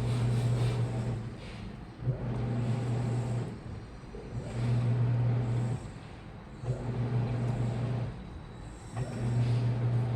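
Washing machine motor running in short bursts, about one every two seconds, each with a low hum that often starts with a click, and quieter churning between: the drum being turned back and forth during a wash cycle.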